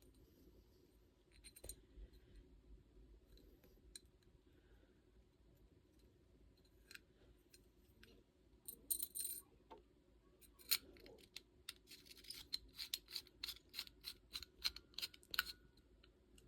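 Small metal parts of a pocket cornet's valve clicking and scraping as the third valve is assembled: a few faint, scattered clicks, then from about ten seconds in a quick run of clicks and scrapes, several a second.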